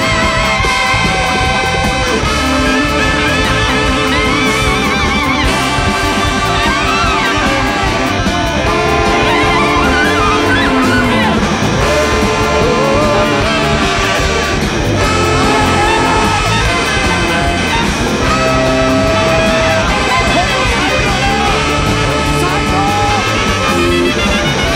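Live performance by a large free-jazz-based band: horns, guitar, bass and drums playing together, with long held notes and wavering melody lines over a steady beat.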